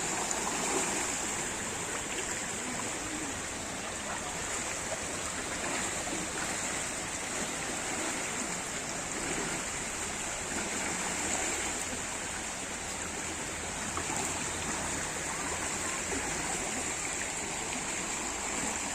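Floodwater flowing steadily, an even rushing wash that holds without a break.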